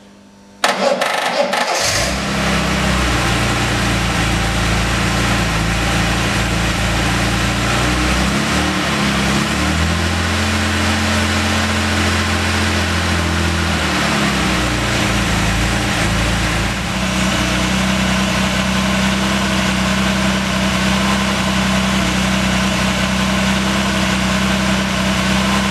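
Jaguar E-Type Series 2's 4.2-litre straight-six engine cranked on the starter, catching after about a second and then idling steadily. Its note changes between about eight and fourteen seconds in, then settles again. This is the first start after the cylinder head was rebuilt to repair a stuck valve.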